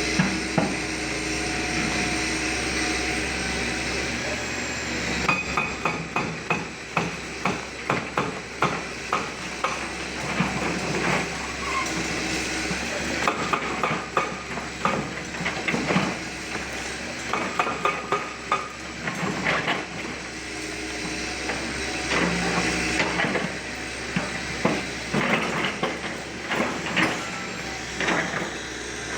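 Demolition work: repeated, irregular hammering knocks and bangs, starting about five seconds in and going on at roughly one or two a second over a steady background noise.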